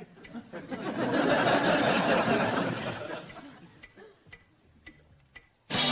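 Studio audience laughter swells and fades over a clock ticking about twice a second. Music cuts in abruptly just before the end.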